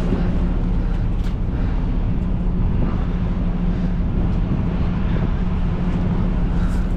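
Peterbilt 389 semi truck's diesel engine idling steadily, with a couple of faint clicks.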